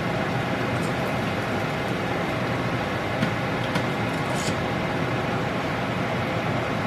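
Spring rolls frying in shallow hot oil: a steady sizzle with a few light crackles.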